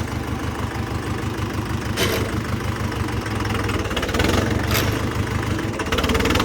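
Tractor's diesel engine idling with a steady low throb. Two short, sharp clatters cut through, about two seconds in and near five seconds in.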